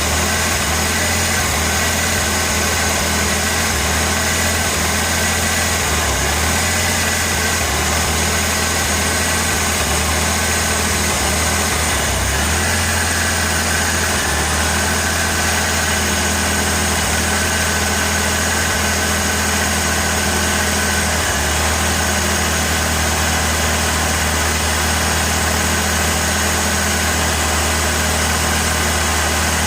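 The 1986 Ford Ranger's 2.3-litre four-cylinder engine idling steadily. The idle is a little uneven for about the first twelve seconds and smoother after that. The engine has a history of misfires and a rough idle, which the owner does not think is misfiring at the moment.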